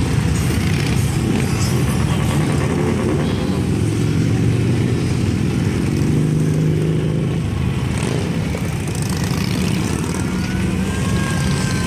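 Many Harley-Davidson motorcycles' V-twin engines rumbling steadily as a parade of bikes rides past. Near the end a faint high whine slowly falls in pitch.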